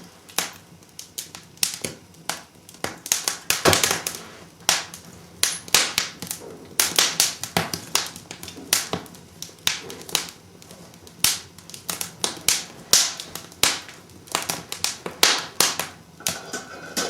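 Kindling fire in a wood-burning fireplace crackling, with frequent irregular snaps and pops.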